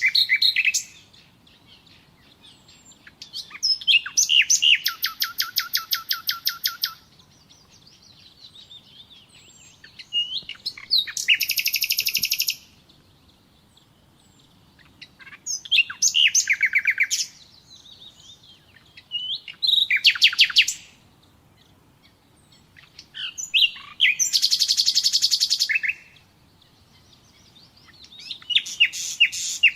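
Common nightingale singing: a string of loud song phrases each a second or two long, several built of fast repeated notes, separated by pauses of about two to three seconds. Faint chirps carry on between the phrases.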